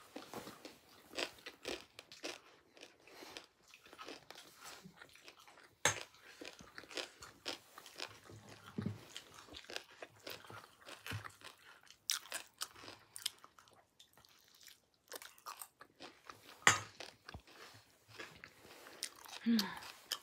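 Close-up chewing and crunching of chatpat, a spicy puffed-rice snack, in irregular crisp crunches with a few louder bites. A short murmur comes near the end.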